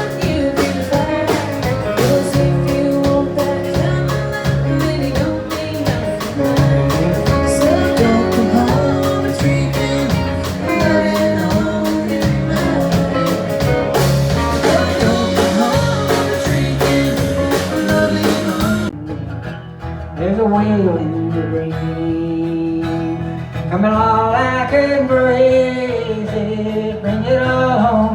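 Country music played by a band with guitar and a steady drum beat. About two-thirds of the way through it cuts suddenly to a thinner, muffled sound in which a melody line bends up and down in pitch.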